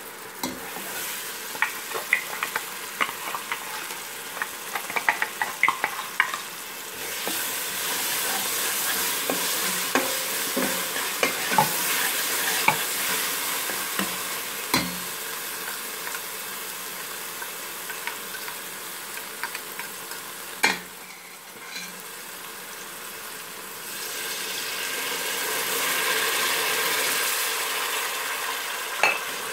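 Ground ginger, garlic, green chilli and tomato paste sizzling in hot oil with fried onions in a stainless steel pot, while a steel spoon stirs and clicks against the pot. The clicks come thickest in the first several seconds; the sizzle grows louder after about seven seconds and again near the end.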